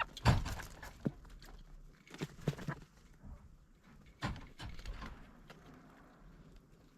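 A few short, sharp thuds and knocks, the loudest just after the start and the last about four seconds in, with quieter scuffing between.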